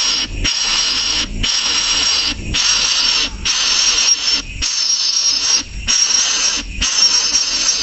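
Baby bird giving harsh, hissing begging calls, one about every second, each call lasting most of a second.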